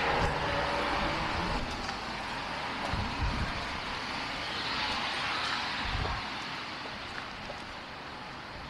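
Road traffic: a passing vehicle's engine and tyre noise, loudest at the start and slowly fading away, with a couple of soft low thumps in between.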